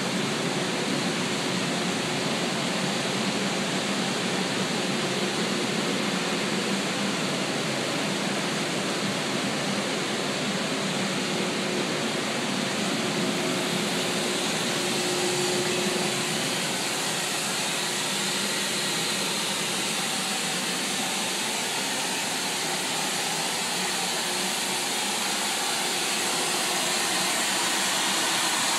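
Water escaping under pressure from a broken water pipe: a steady rushing hiss that grows a little louder near the end.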